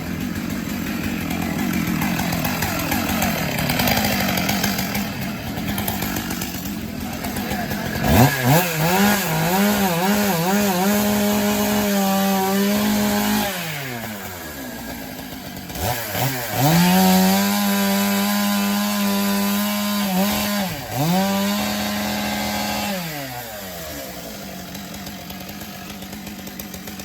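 Chainsaw revved to full speed three times, each time held for a few seconds and dropping back toward idle between. The first run wavers in pitch, as if biting into wood.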